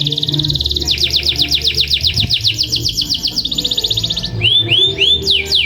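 Domestic canary singing long rapid trills, fast runs of repeated high notes. Near the end the song changes to a few slurred arching notes, then quick downward-sweeping notes.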